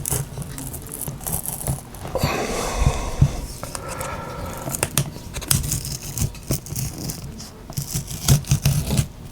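Pry tool scraping along a glued touch-screen panel and heat-softened adhesive tearing as the glass is worked free of the plastic bezel, in irregular crackles with scattered sharp clicks.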